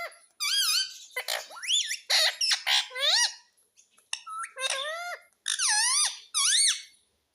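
Indian ringneck parrot calling: a run of about six loud, squeaky calls, each swooping up and down in pitch, with short pauses between them.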